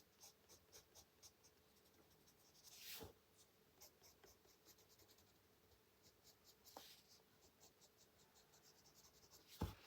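Faint scratching of a colored pencil on paper in quick, light shading strokes, about three or four a second, with a short knock near the end.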